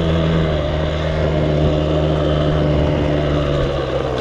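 Husqvarna 85 two-stroke dirt bike engine running at a steady, even pitch, easing off slightly near the end.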